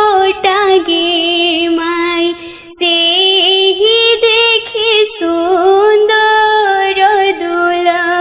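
Slow opening melody of a Bihari folk wedding song: one high melodic line with long held notes that bend and waver, with no beat.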